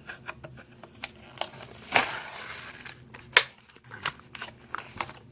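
Hot Wheels die-cast toy truck and its plastic packaging being handled: a string of light clicks and taps, a louder crackling rustle about two seconds in, and a sharp click a little after three seconds.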